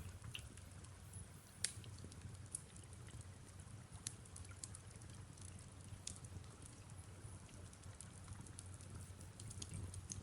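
Faint fireplace ambience: a wood fire crackling with irregular sharp pops, one louder about two seconds in, over a steady low rumble and the soft hiss of rain.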